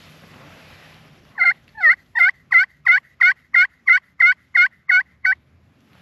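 Turkey yelping: a run of about twelve evenly spaced, loud yelps at roughly three a second, starting about a second and a half in and stopping near the end.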